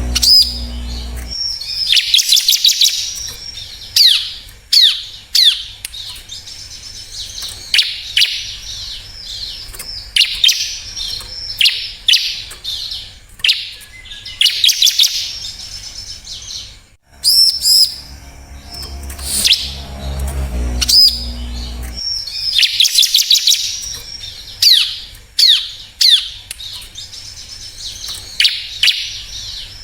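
Bar-winged prinia (ciblek) singing: high-pitched phrases of rapid sharp chirps and quick downward-sliding notes, repeated every second or two, with a brief break about halfway through.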